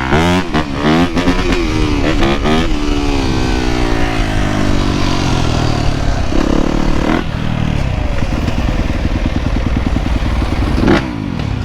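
Dirt bike engines revving and riding, with several quick rises in pitch in the first few seconds, then a long slow fall as the revs drop, then steadier running with another rev near the end.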